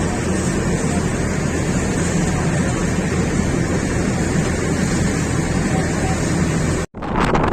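Steady, loud engine rumble with a constant low hum, cut off abruptly near the end; wind then buffets the microphone.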